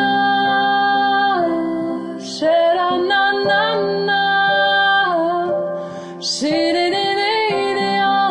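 A woman singing wordless 'sha-na-na-na-na' phrases in long held notes that slide at their ends, over sustained piano chords. New phrases begin twice, about two and a half seconds in and near the end.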